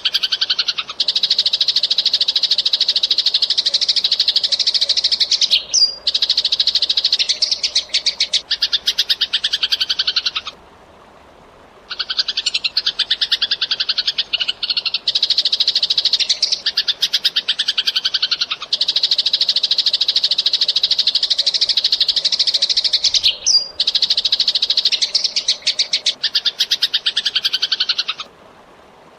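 Eurasian tree sparrow chattering in long runs of rapid, tightly packed chirps, broken by a short pause about ten seconds in and another near the end.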